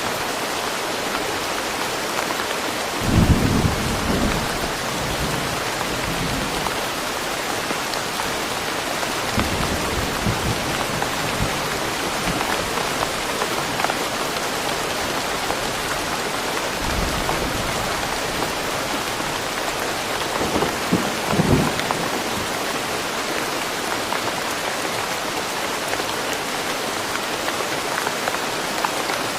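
Steady heavy rain falling on foliage and surfaces, with low rolls of thunder several times, the loudest about three seconds in and again about two-thirds of the way through.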